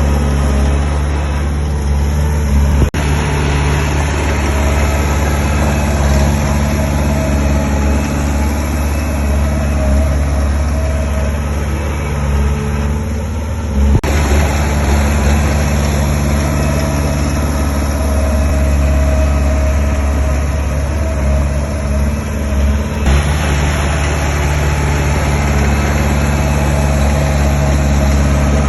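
Diesel engine of heavy earth-moving machinery running steadily with a low drone, its sound shifting abruptly a few times.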